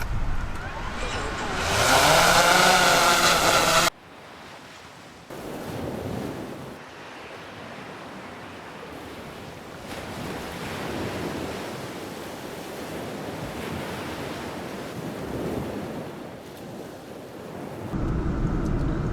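Sea waves washing in a steady hiss with slow swells, after a loud pitched sound that slides up and down and stops abruptly about four seconds in.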